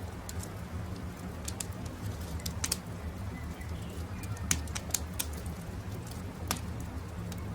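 Campfire crackling, with sharp pops and snaps scattered irregularly over a steady low rumble. Birds call faintly in the background.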